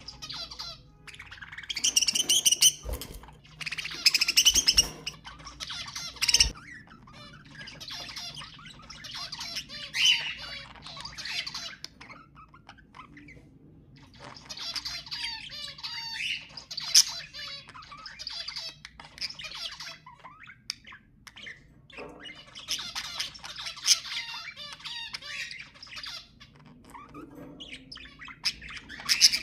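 Budgerigars warbling and chattering: fast, wavering, high-pitched chatter in bursts of a few seconds with short pauses between. A few short knocks come in the first seven seconds.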